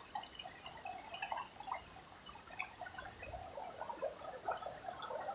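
Small stream of water trickling through a drain, with faint, irregular little splashes and drips.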